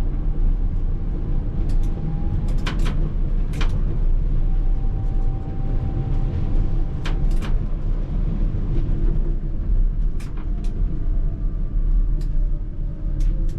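ČKD Tatra T3R tram running along the track. A steady low rumble, a faint whine that comes and goes and drops in pitch near the end, and sharp clacks from the wheels on the rails every few seconds.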